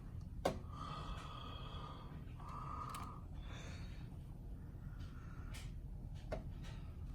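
Ceiling fan running with a steady low hum, with two sharp clicks, one about half a second in and one near the end.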